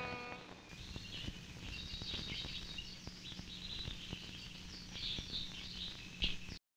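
The last ring of an electric guitar chord fades, then faint, high bird chirps and twitters sound over soft background noise. The chirps cut off just before the end.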